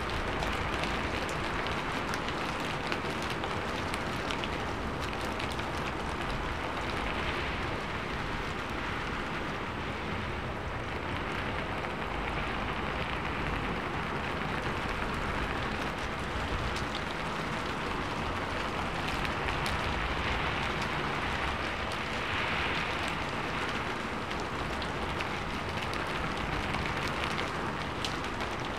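Steady rain falling on a sheet-metal roof. It makes a dense patter with sharper single drop hits throughout, and it swells a little now and then.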